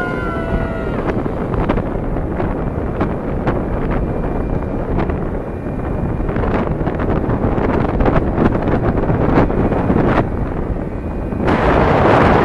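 Heavy wind buffeting the microphone over a steady vehicle rumble, with frequent sharp knocks. A louder gust comes near the end.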